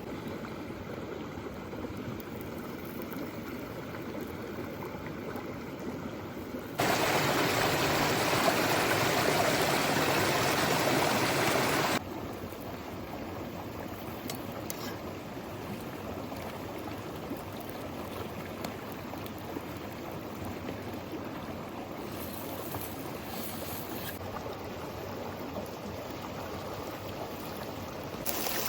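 Steady rush of a flowing stream. It jumps abruptly louder for about five seconds a third of the way in, then drops back to a softer flow.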